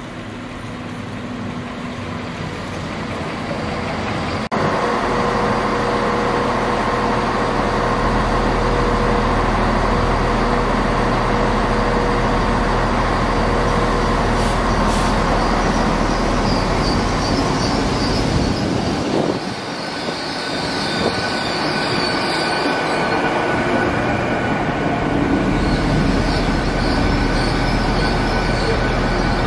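Diesel passenger trains at a station platform. A ScotRail Class 170 Turbostar draws in, then a steady low diesel engine drone is heard as an LNER Azuma runs in beside a standing ScotRail train. In the second half, high-pitched wheel and brake squeal sits over the engine drone.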